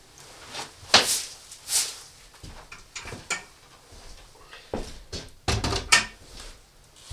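Handling noises: a series of separate knocks, scrapes and swishes, with a busier cluster of knocks about five to six seconds in.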